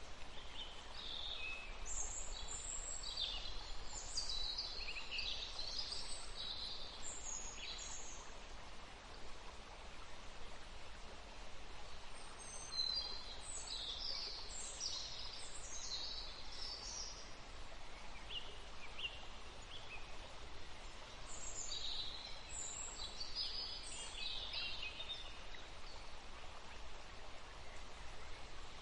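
A forest stream running steadily, with songbirds singing over it in three bouts of quick, high chirping phrases: near the start, about halfway through, and again about three-quarters of the way in.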